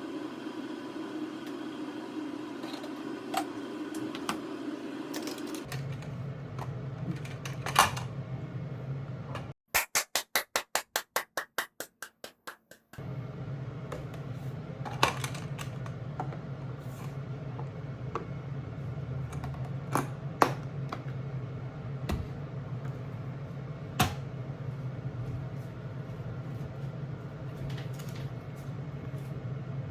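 Steady low hum with scattered light clicks and knocks, like kitchen work going on. About a third of the way in, the hum stops for a few seconds while about fifteen quick, evenly spaced sharp taps sound.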